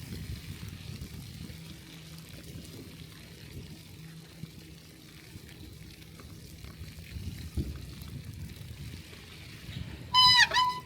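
Low rumble of wind and riding noise on a bicycle-mounted microphone. Near the end comes a brief loud, high-pitched squeal that dips in pitch and comes back up.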